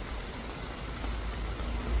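Steady hiss of falling rain, with a low rumble underneath that grows a little stronger near the end.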